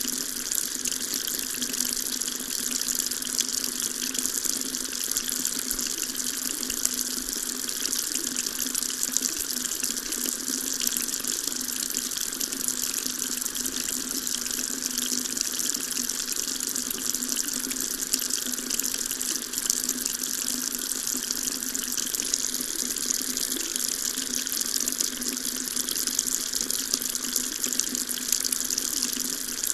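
Water tap running steadily, a continuous even splashing rush.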